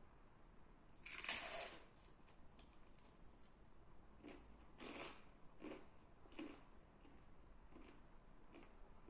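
A person bites into crunchy naan-bread pizza crust, one loud crunch about a second in, then chews it with repeated crunching about once every second.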